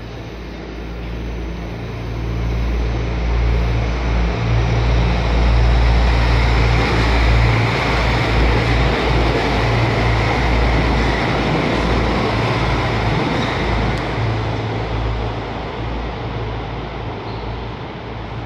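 A train running past a station platform: a broad rumble of wheels on rails that swells over a few seconds, holds for several seconds and then fades, over a steady low hum.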